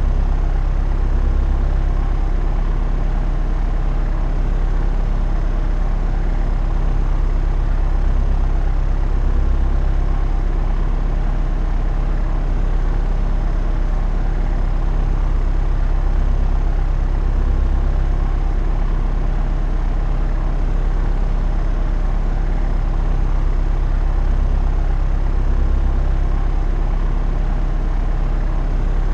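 Propeller aircraft in cruising flight, its engine and propeller drone running steady and unchanging with a deep low hum.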